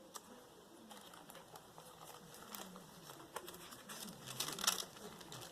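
Paper pages and card tags of a handmade junk journal being handled and turned: soft rustles and crinkles, louder and busier about four seconds in.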